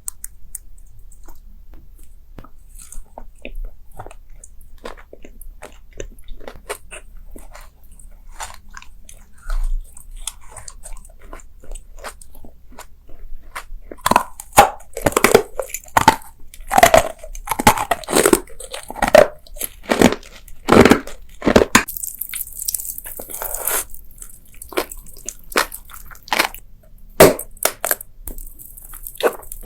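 Close-miked crunching and chewing of crisp food: scattered soft bites and chews at first, then a run of loud, rapid crunches about halfway through, easing back to occasional crunches near the end.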